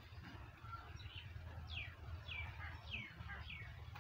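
A small bird calling: a run of short, high chirps, each falling in pitch, about two a second in the second half, over a low steady rumble.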